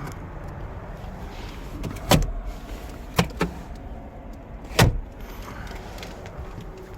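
Four sharp clicks and knocks from parts of a truck's cab being handled, over a steady low background noise. The last knock is the loudest.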